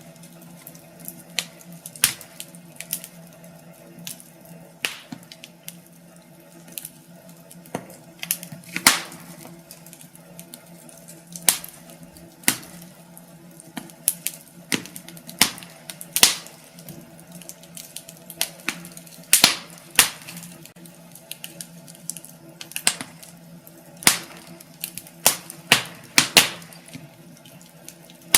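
Wood fire crackling in a fireplace: irregular sharp pops and snaps over a soft steady hiss, with a faint steady low hum underneath.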